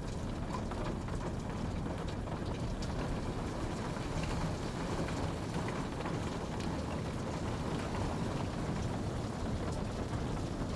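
Steady rainfall, an even hiss with a low rumbling undertone and scattered drops pattering.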